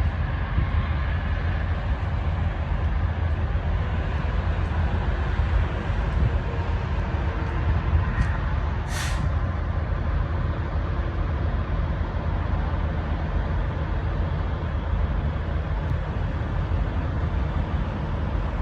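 Heavy truck running steadily with a low rumble. About halfway through comes one short, sharp hiss of air, like an air brake letting off.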